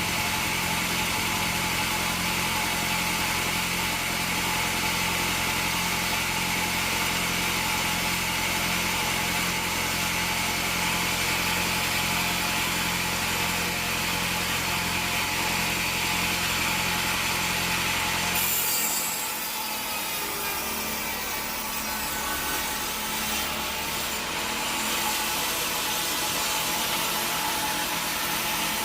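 Bandsaw sawmill cutting through a teak log: the blade hisses through the wood over a steady machine hum. About eighteen seconds in, the low hum drops away suddenly, leaving a raspy sawing sound.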